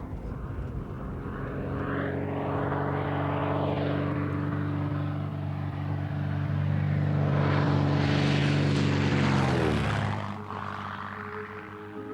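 Propeller aircraft engine droning steadily, growing louder, then dropping sharply in pitch about ten seconds in as it passes by and fades.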